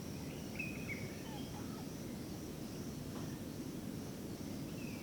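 Natural outdoor ambience: a steady high-pitched insect drone, with short bird chirps scattered through it over a low background rumble.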